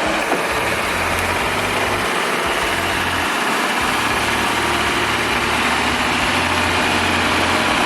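Heavy truck engine running steadily, a loud, dense engine noise with a low rumble.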